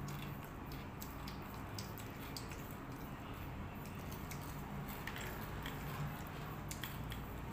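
Close chewing and mouth sounds of a person eating, with many small wet clicks and smacks, picked up by a lapel microphone over a steady low hum.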